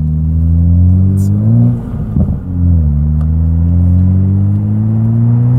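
Toyota Supra A90's turbocharged 3.0-litre straight-six, breathing through a titanium single-exit exhaust, pulling under acceleration with its pitch rising. About two seconds in it breaks off briefly and comes back lower, a gear change, then rises again as the car pulls in the next gear.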